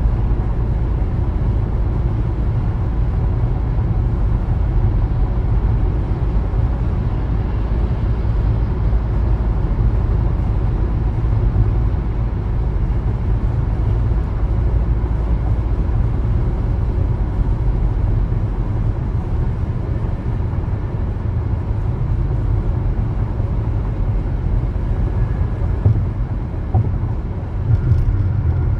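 Car driving along at steady speed: a constant low road-and-tyre rumble with engine hum, and a light click near the end.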